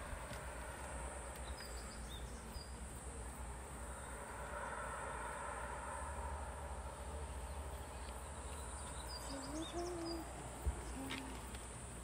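A bird's low hooting calls, three short coos near the end, each rising slightly in pitch, with a few faint high chirps from small birds.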